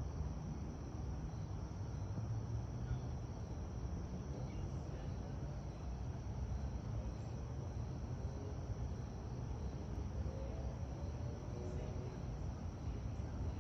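Crickets chirping steadily over a low, even outdoor rumble.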